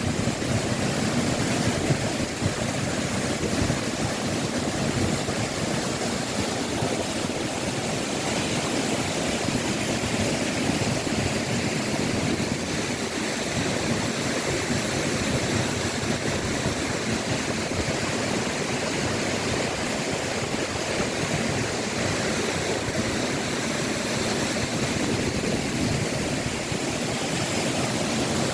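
Waterfall: a steady rush of falling water that stays even throughout.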